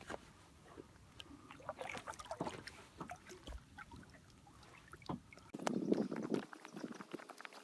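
Small knocks and water sounds on a kayak: scattered light clicks and taps, with a louder, fuller bump or rustle lasting about a second, around six seconds in.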